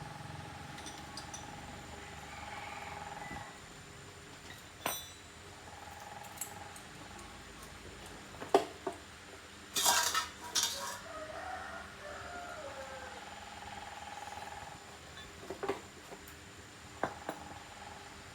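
Scattered metallic clinks and knocks of hand tools and engine parts being handled during motorbike engine repair, with a short burst of noise about ten seconds in.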